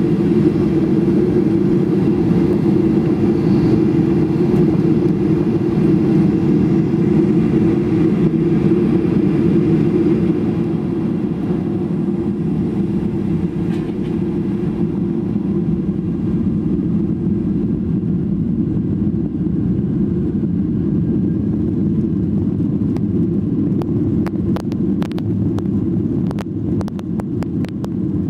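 Steady low rumble inside the cabin of a Boeing 737 with its engines running, easing slightly about a third of the way through, with a run of light clicks near the end.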